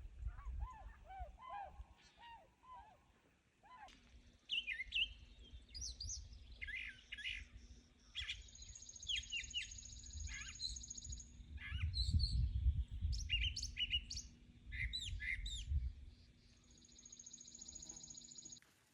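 Swans giving a series of short honking calls for the first few seconds, then from about four seconds in a chorus of small songbirds chirping, with short rapid notes and two long buzzy trills, over a low wind rumble.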